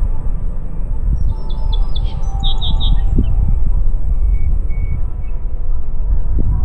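Wind buffeting the microphone as a steady low rumble. Over it, a bird calls a quick run of short, high notes about a second in, and fainter bird calls sound in the background.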